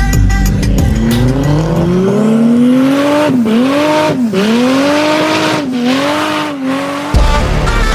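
Engine revving up, its pitch climbing for about two seconds, then dipping and climbing again four times as with gear shifts or throttle lifts, before cutting off abruptly near the end.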